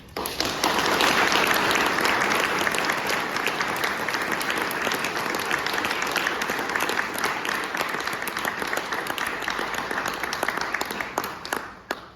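Audience applauding at the end of a piano and flute piece, a dense burst of clapping that starts at once, then thins to a few last claps near the end.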